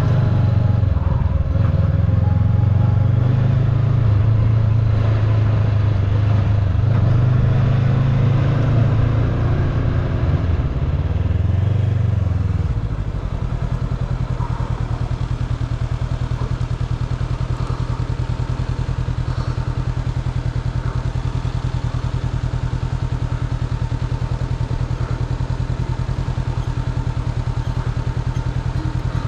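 Motorbike engine running, its pitch wavering up and down for the first dozen seconds, then settling to a steady, even, lower note from about 13 seconds in.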